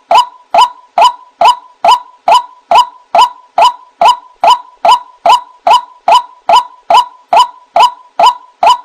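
White-breasted waterhen (ruak-ruak) giving its 'kruak' call over and over, about two and a half short, sharp notes a second in an even, unbroken rhythm.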